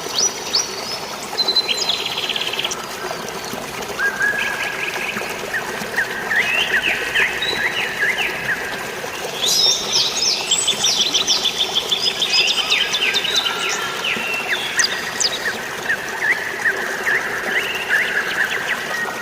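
Several birds chirping, whistling and trilling, the calls overlapping and densest about halfway through, over a steady wash of running water.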